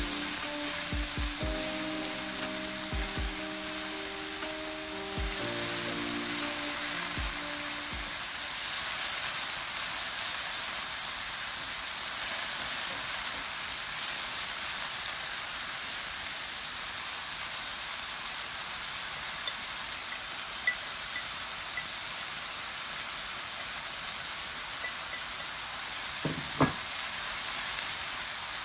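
Sliced king oyster mushrooms sizzling steadily as they are stir-fried in a nonstick frying pan, with a few knocks of the chopsticks and wooden spatula against the pan near the start and near the end. Soft background music plays under the sizzle for the first several seconds, then fades out.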